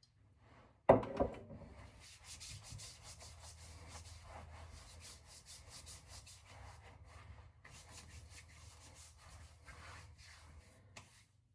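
A sharp knock, then about ten seconds of quick, irregular scratchy rubbing strokes, as of something rubbed or scrubbed against a surface, ending with a click.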